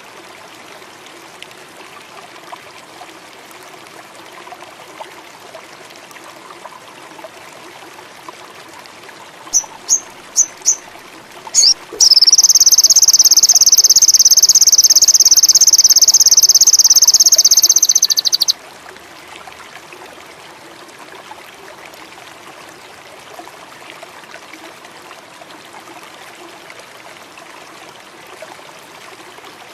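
A sogon sunbird gives four or five short, high chips, then a loud, very rapid high trill that lasts about six seconds and stops abruptly, over steady running water.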